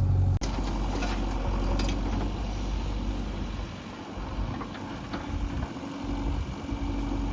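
Diesel engine of heavy machinery running with a rough, uneven rumble, and a few sharp clanks over it.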